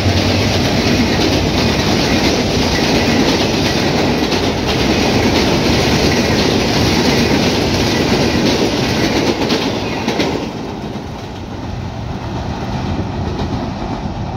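Benapole Express intercity passenger train running through the station at speed, its coach wheels clattering over the rail joints. The noise drops off about ten seconds in.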